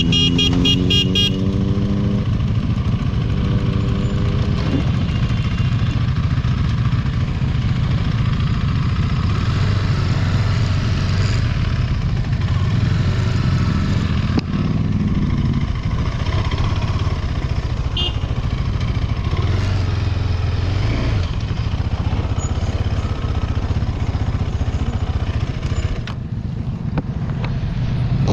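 KTM 390 Adventure's single-cylinder engine running as the bike is ridden at low speed. Its pitch rises as it pulls away in the first few seconds, over steady wind and road noise.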